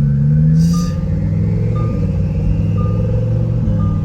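Twin-turbo Lamborghini's engine running at a steady, low-revving cruise. There is a short hiss about a second in, and a short electronic beep about once a second throughout.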